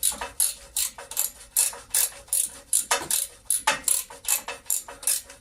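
Socket ratchet clicking in quick, regular back-and-forth strokes, about three to four a second, unscrewing an exhaust/inlet manifold nut that has just come free.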